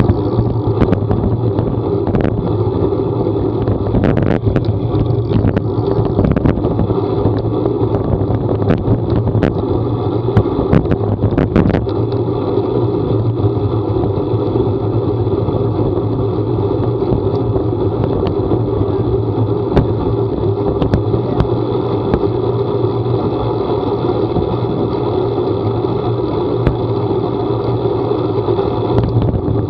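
A vehicle running steadily on the move, with a constant low drone and scattered sharp ticks and knocks, most frequent in the first half.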